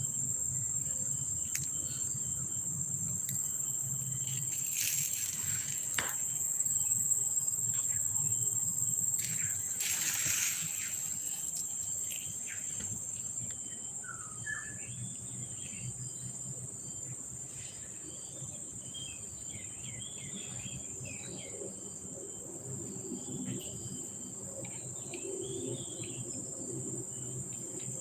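Steady, high-pitched drone of insects, with faint short chirps over it in the second half.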